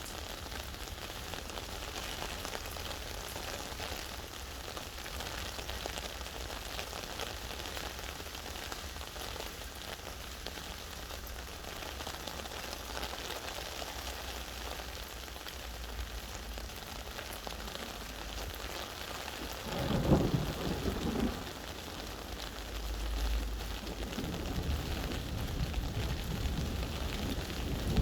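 Steady rain falling. A loud rumble of thunder comes about two-thirds of the way in, and another low rumble builds near the end.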